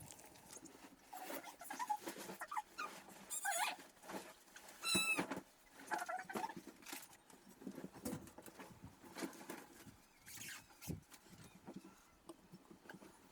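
Animal cries: two short, wavering, high-pitched calls about three and a half and five seconds in, among scattered knocks and rustling.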